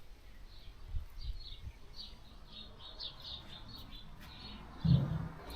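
Small birds chirping repeatedly in quick short calls, with a low rumble underneath and a dull thump near the end.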